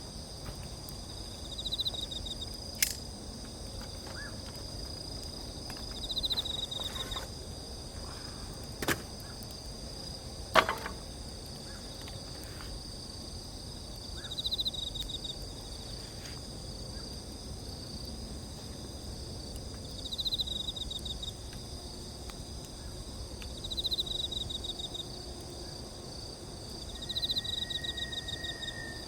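Insects chirping steadily in the night, with a pulsed trilling call repeating every few seconds. A burning campfire gives three sharp pops: about three seconds in, about nine seconds in, and a louder one just after.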